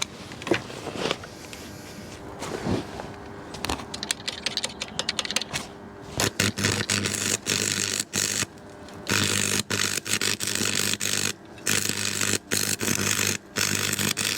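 Small electric arc welder joining steel trackbed sections: after a few knocks, the arc starts crackling about four seconds in, then crackles and buzzes in runs of about a second with short breaks.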